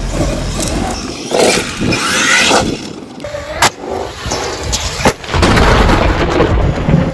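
Traxxas Maxx V2 RC monster truck's electric motor revving and its tyres running on asphalt, broken by three sharp clacks as the truck hits the ground from jumps and flips, about halfway, two-thirds of the way and near the end.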